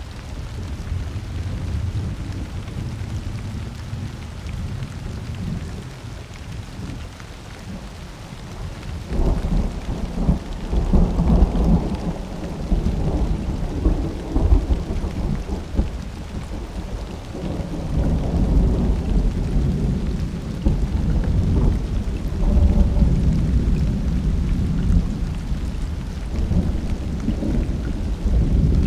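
Summer thunderstorm: long rolls of thunder over steady rain. The thunder swells loudly about a third of the way in and rolls on in waves to the end, with a lower rumble before that.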